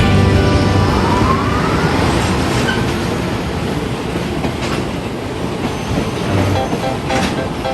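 Electric train running on the rails: a steady rumble and rattle of wheels, with a rising whine about a second in.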